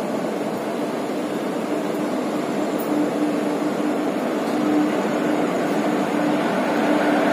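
Indian Railways passenger coach running along a station platform, heard from its open doorway: a steady rumble and hiss of wheels on rails with a faint steady hum, growing slightly louder.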